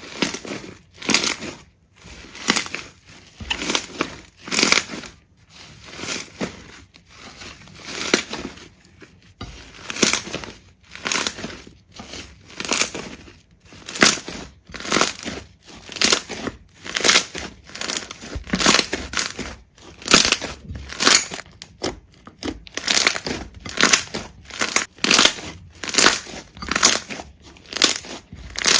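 Hands squeezing and pressing a large slime, giving short squishy crackling pops about once a second in a steady rhythm.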